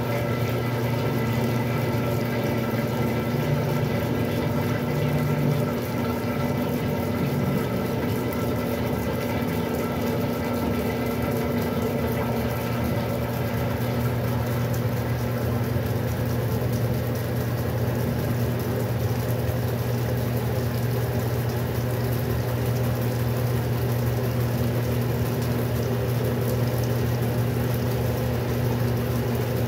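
Westinghouse washing machine running steadily: a constant motor hum over the sound of water.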